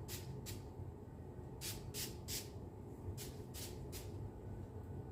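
Hair spray bottle pumped about eight times in quick short hisses, in groups of two or three, misting the hair.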